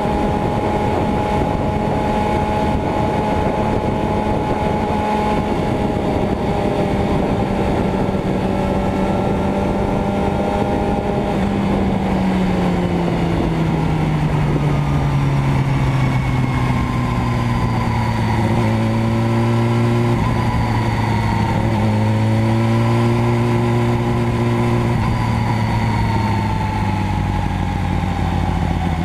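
Motorcycle engine running steadily, its note dropping over a couple of seconds about twelve seconds in and then holding lower. A second engine tone comes in and out partway through the later part.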